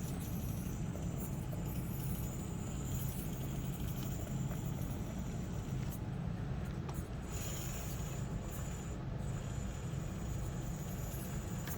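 1/24-scale SCX24 crawler fitted with a Furitek Lizard brushless motor, crawling slowly: a steady low hum, with a thin high whine from the motor and gears that comes and goes.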